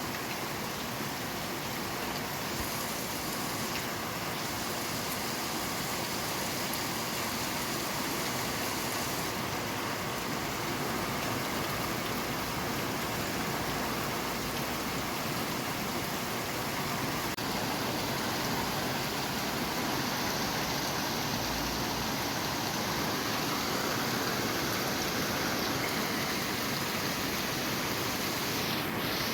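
Steady rain falling, an even dense hiss without distinct drops or thunder.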